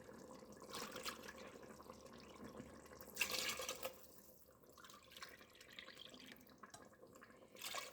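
Water being poured into a pot of chicken and tomato gravy, faint, with a louder pour about three seconds in and another near the end.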